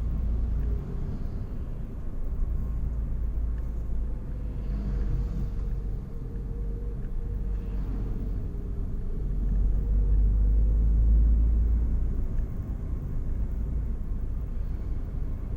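A car on the move: a steady low rumble of engine and road noise, swelling a little about ten seconds in.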